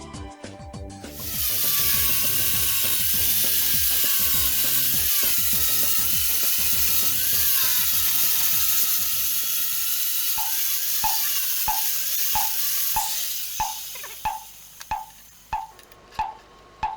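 A power tool working metal runs steadily with a loud hiss and a wavering high whine, then stops about thirteen seconds in; evenly spaced clicks follow, about one and a half a second, over background music.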